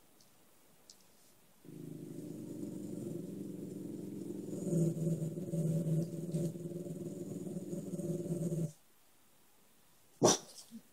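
A dog growling, one low continuous growl for about seven seconds that stops abruptly. A sharp click or knock follows near the end.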